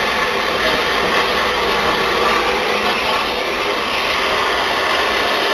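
A train running on the rails, a steady, loud rumble and rattle of wheels and carriage with no let-up.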